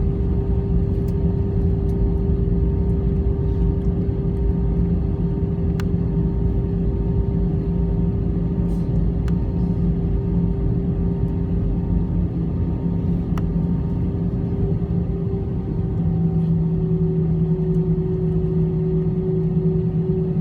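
Airliner cabin noise on the ground after landing: a steady engine drone with a low rumble, holding two steady tones. The lower hum grows stronger about sixteen seconds in.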